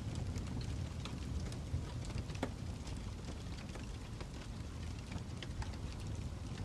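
Fire crackling: a steady low rumble with irregular sharp pops and snaps, the strongest about two and a half seconds in.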